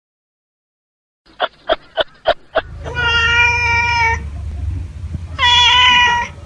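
An animal calling: a quick run of five short calls about a second in, then two long drawn-out calls over a low steady rumble.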